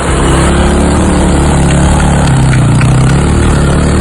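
Motorcycle engine starts and runs steadily, its pitch rising a little past the middle. The bike is being restarted after stalling in the river crossing.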